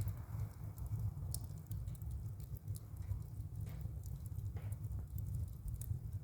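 Firewood burning in a wood-burning stove: a steady low rumble with scattered sharp crackles and pops throughout.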